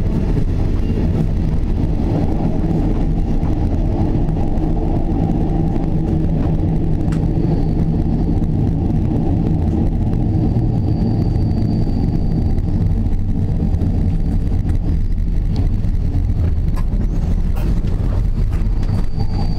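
Passenger train coach running along the track, a steady low rumble with a few scattered clicks. A faint high whine comes in briefly about halfway through and again near the end.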